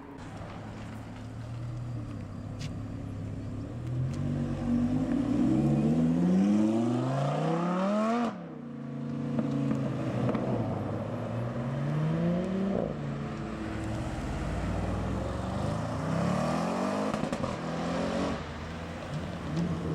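Audi car engines accelerating away, each rev climbing steeply in pitch and then dropping off sharply, about three times in turn.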